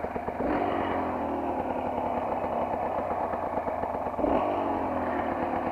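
Motorcycle engine running under way, revving up briefly about half a second in and again a little after four seconds, its pitch falling away after each.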